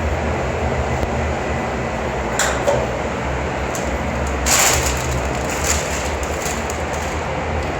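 Truck engine running with a steady, pulsing low rumble, with two brief hissy swells about two and a half and four and a half seconds in.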